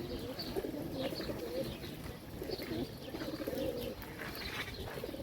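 Pigeons cooing in low, wavering calls over and over, with short high chirps from other small birds mixed in.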